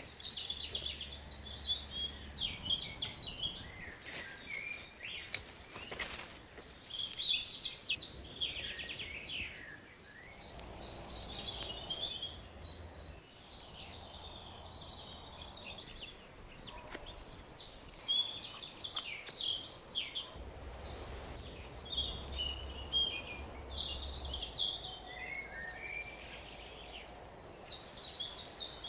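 Woodland songbirds singing in short, repeated phrases, with a few sharp pops from a campfire.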